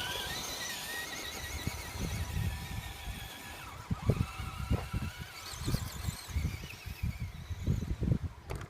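RC scale crawler's electric motor and gear drivetrain whining, the pitch rising and falling as the throttle is worked, with irregular low thumps through the second half.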